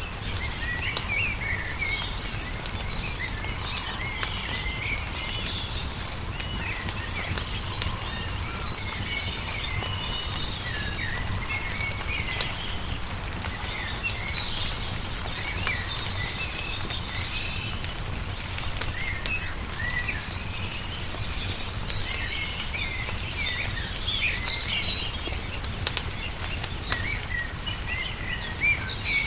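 Songbirds chirping and twittering continuously in short, overlapping phrases, over the scattered sharp pops and crackles of a wood fire and a steady low rumble.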